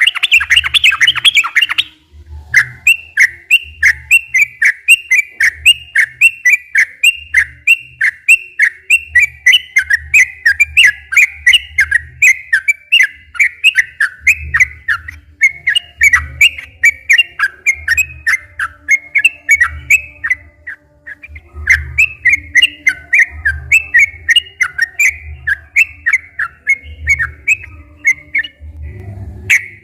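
Yellow-vented bulbul (trucukan) singing vigorously in long, rapid runs of short chirping notes, with a brief break about two seconds in and another around twenty seconds.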